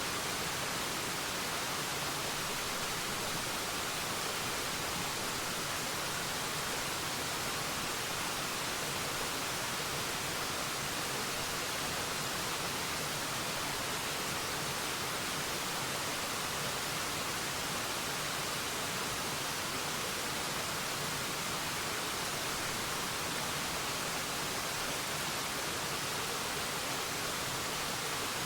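Waterfall rushing in an even, unchanging wash, mostly hiss with little low rumble.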